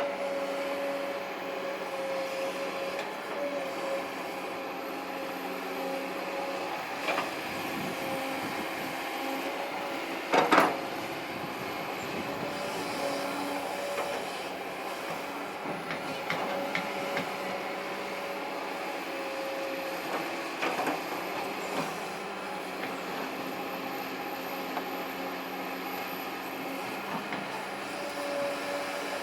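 Kobelco SK200-8 excavator's diesel engine running under working load, its hum changing as the hydraulics take up and let go, with a faint high whine that rises and falls. A loud metallic clank comes about ten seconds in, with a few smaller knocks later.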